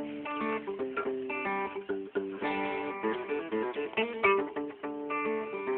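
Acoustic guitar playing: a run of plucked notes and strums that changes pitch in steps, with no singing over it.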